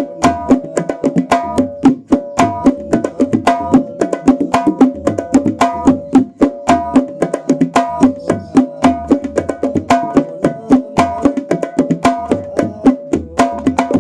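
Sundanese terbangan frame drums playing a fast, steady interlocking rhythm of sharp slaps and deeper strokes, the sound check of a newly made tirintit drum. Above the drums runs a melody of held notes stepping between a few pitches.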